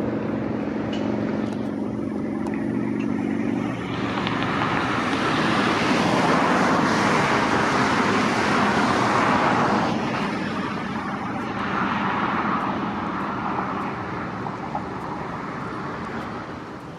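Road traffic noise from passing vehicles, swelling about four seconds in and fading near the end, with a steady low engine hum in the first few seconds.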